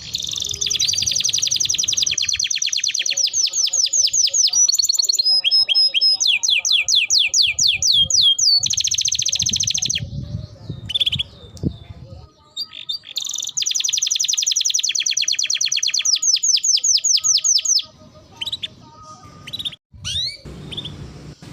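Domestic canary singing: long runs of fast repeated trilled notes, each run changing to a new note pattern every second or two, with quieter breaks in the middle and near the end.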